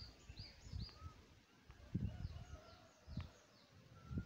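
Faint background bird chirping: many short, curved high notes repeating several times a second, with a few lower whistles. A few dull low thumps are the loudest sounds, about two seconds in and near the end.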